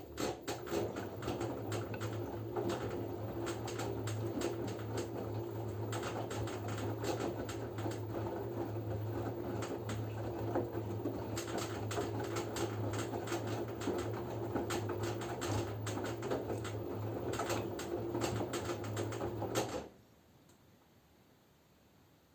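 LG F10B9LD washing machine turning its drum during the wash phase: a steady motor hum with a fast clatter of clicks from the tumbling load. It stops suddenly about twenty seconds in, a pause between drum rotations.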